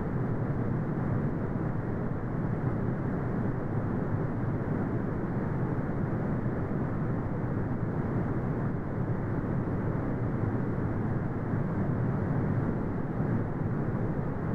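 Continuous brown noise: a steady, deep rumbling hiss with its energy in the low end and nothing above the upper midrange, unchanging throughout.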